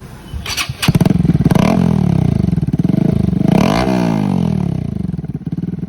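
Bajaj Pulsar NS160's single-cylinder engine running loud with its stock underbelly muffler removed, through the open exhaust. It comes in about a second in and is revved up and back down twice before settling.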